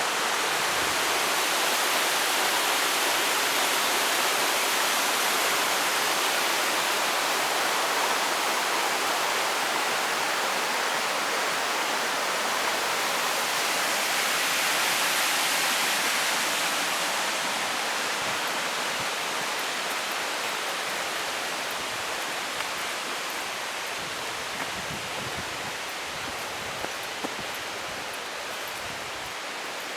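Mountain creek rushing and splashing over rocks, a steady wash of water noise. It is loudest about halfway through, then gradually fades.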